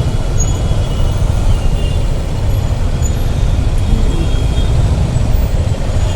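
Motorcycle ride through jammed city traffic: a steady, loud low rumble of engines and road noise, with a few faint short high-pitched tones over it.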